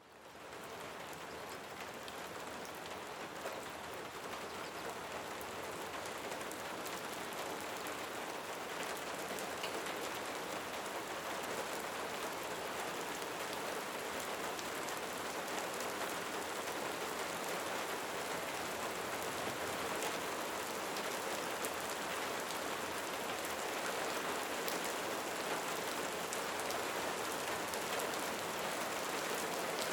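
Steady rain falling in a cenote: a dense, even patter with no breaks. It fades in over the first second, then holds.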